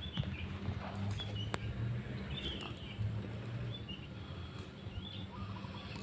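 Birds chirping in short calls every second or so, with a trilling call near the end, over a low steady hum.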